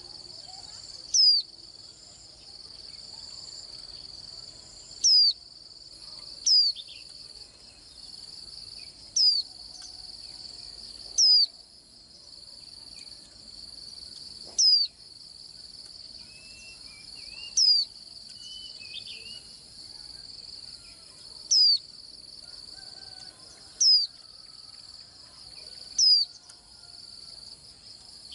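A white-eye calling: about ten loud, short, high notes, each sliding sharply downward, spaced one to four seconds apart, with a few faint soft warbles midway. Behind it, a steady high-pitched chorus of crickets.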